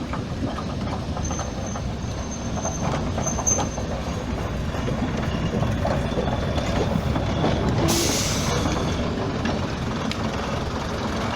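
Heritage train moving on the rails: a steady rumble with a faint high squeal in the first few seconds and a short hiss about eight seconds in.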